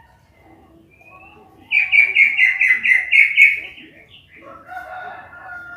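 Cucak ijo (green leafbird) singing: a loud, rapid run of about eight repeated high chirping notes lasting some two seconds, then a quieter, lower warbling phrase near the end.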